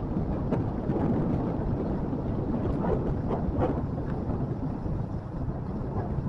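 Motorcycle running along a road, a steady low rumble mixed with wind noise on the microphone.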